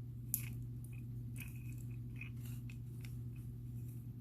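Faint, scattered small clicks and rustles of beads, needle and stretchy cord being handled as the cord is pulled through the beads, over a steady low hum.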